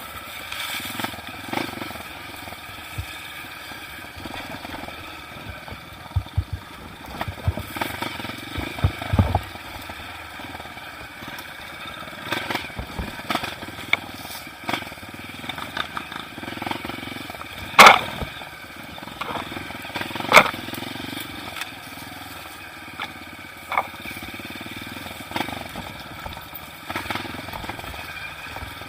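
Off-road motorcycle engine running at low revs on a rough trail, with scattered knocks and clatter. A sharp knock comes about 18 seconds in and another about 20 seconds in.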